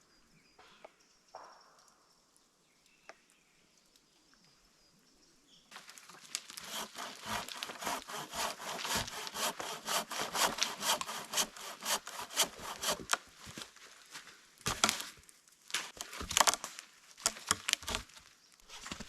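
A fast, rhythmic run of rasping strokes, several a second, that starts abruptly about six seconds in after near quiet and keeps going.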